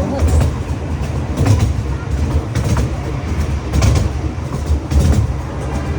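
Zoo train rolling along its track, heard from aboard a passenger car: a steady low rumble with a click every second or so as the wheels cross rail joints.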